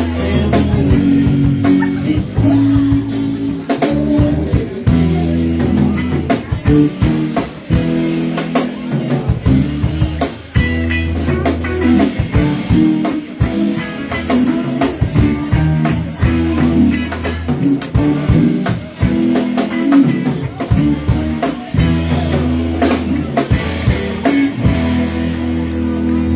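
Live band playing a song: electric guitar, bass and drum kit, with sustained bass notes under steady drum hits.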